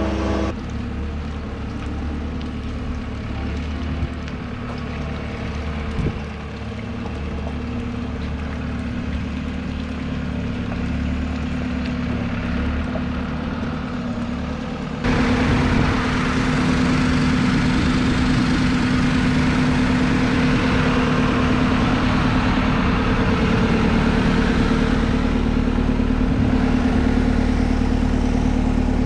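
An engine running steadily. About halfway through it cuts abruptly to a louder stretch, with the engine joined by a wide hiss.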